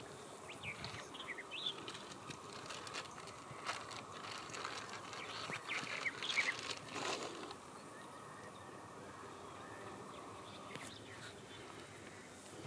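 Faint outdoor ambience with a steady low background and short high bird chirps, in a cluster about half a second to a second and a half in and again around six seconds in, with a few light clicks.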